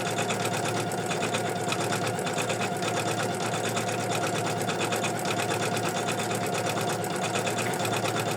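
Computerized embroidery machine stitching an in-the-hoop design, running steadily with a rapid, even needle rhythm.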